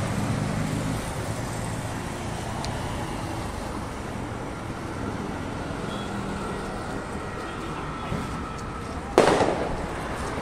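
Steady street traffic noise, with one sharp, loud bang about nine seconds in that dies away quickly.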